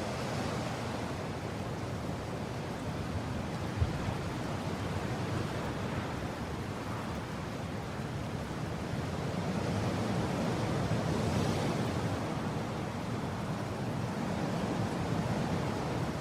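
Mountain wind blowing in a steady rush, swelling a little louder past the middle and easing again. One short low thump about four seconds in.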